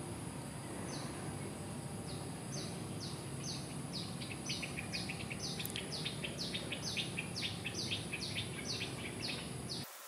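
A bird repeats a short, high, falling call note, sparse at first and then about three times a second, over a steady high insect drone and low outdoor background noise. The sound cuts off abruptly just before the end.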